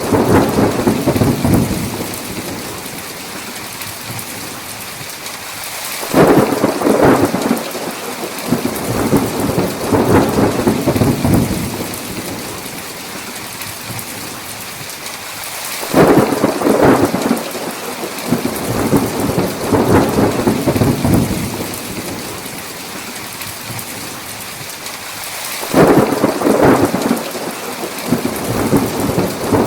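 Steady heavy rain with rolling thunder. A peal is dying away at the start, then three more break in sharply about every ten seconds, each rumbling on for several seconds before easing back to the rain.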